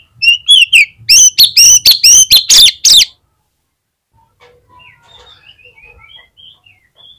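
Oriental magpie-robin (kacer) singing. It opens with a loud, fast run of about nine sharp, sweeping whistled notes, then drops to softer, quieter twittering phrases.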